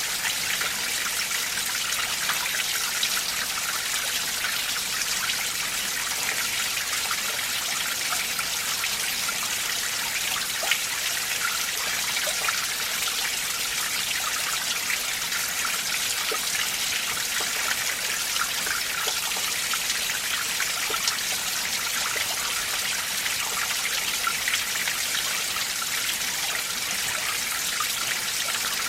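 Winter mountain valley stream flowing over rocks: a steady, bright rush of running water with fine trickles and splashes.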